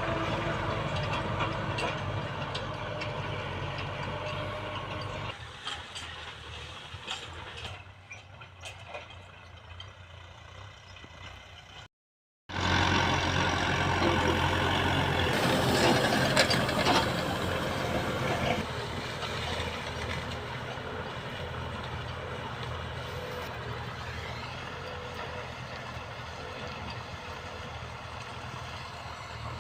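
Small tractor's engine running. It gets quieter about five seconds in, cuts out to silence briefly near twelve seconds, returns louder, then settles to a steady level.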